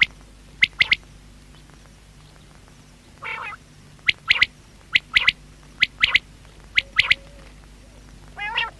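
Common quail calling: short, sharp, repeated notes, mostly in quick pairs with gaps of about a second between pairs. A lower, buzzier call breaks in about three seconds in and again near the end.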